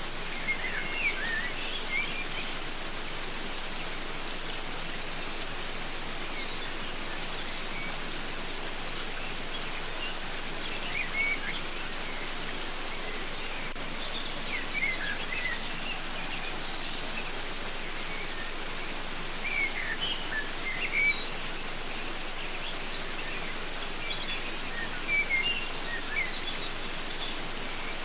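Steady rush of a waterfall, with birds calling in short clusters of chirps every few seconds over it.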